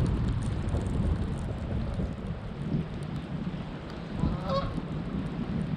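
Wind rumbling on the microphone, with one short pitched animal call about four and a half seconds in.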